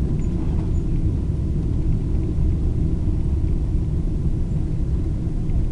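Steady low rumble of a Boeing 777-200 heard from inside the passenger cabin during landing, with no distinct thumps or changes.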